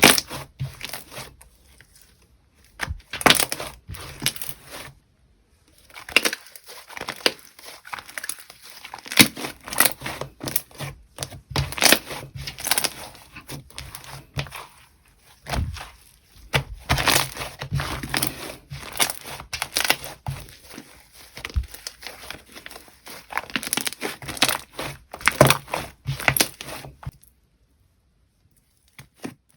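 Slime being squished, pressed and stretched by hand, giving runs of crackling, crinkly pops and squelches in bursts with short pauses. It stops about three seconds before the end.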